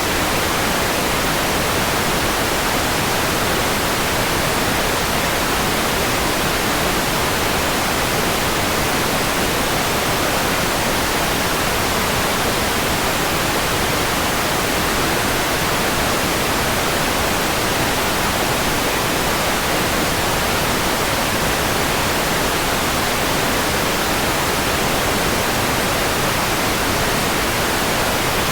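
Steady, unchanging white noise: an even hiss spread across the whole range, with no rhythm or events.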